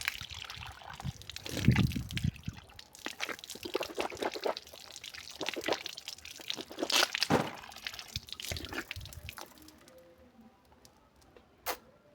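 Water pouring and splashing in irregular spurts as a toothbrush is rinsed, with little drips and knocks, dying away about three-quarters of the way through.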